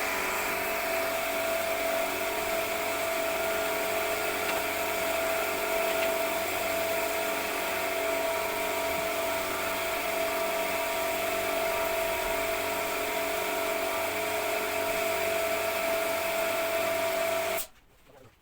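A small electric power tool running steadily with a high, even whine, cut off abruptly near the end.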